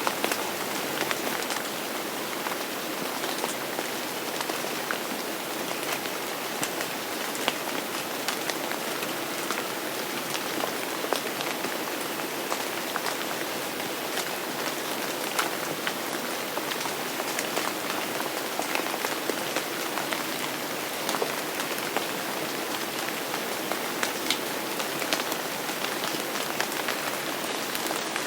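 Steady heavy rain falling on a surface, with many individual drops pattering through it.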